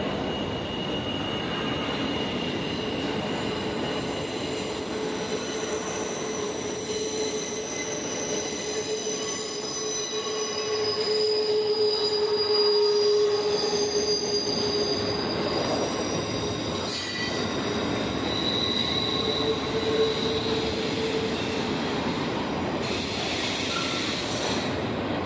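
Train rolling past with its steel wheels squealing against the rails: several thin, high, sustained tones drifting slightly in pitch over the steady noise of the moving cars. It gets a little louder about halfway through.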